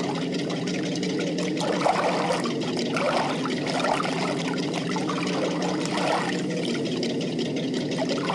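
Water sound effect for a toy tanker ship: a steady rush of water with bubbling gurgles breaking through now and then.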